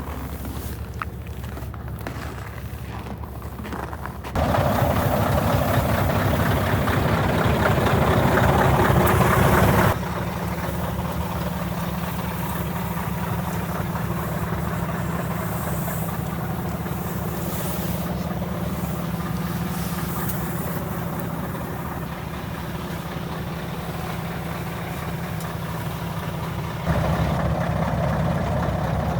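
Scania T144 truck's 14-litre V8 diesel idling steadily. Its loudness jumps abruptly about four seconds in, drops about ten seconds in, and rises again near the end.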